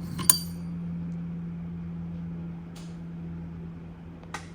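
A metal engine valve being handled as it is pulled from the cylinder head: a sharp metallic clink with a brief ring about a third of a second in, then two lighter clicks, over a steady low hum.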